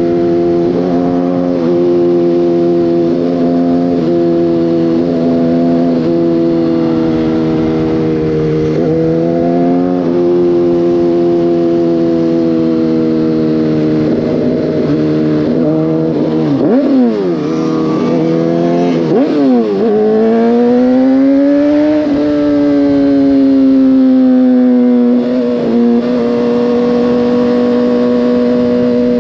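Motorcycle engine running under way. The revs hold mostly steady with a few brief dips, drop steeply and climb back twice around the middle, then rise steadily before levelling off.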